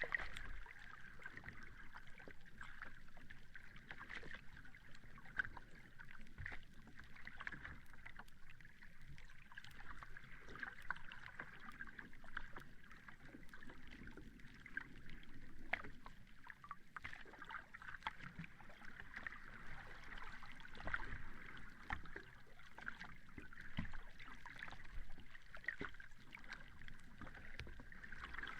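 Sea water washing and lapping at the shore: a steady hiss with fine crackles and a soft low rumble that swells and eases.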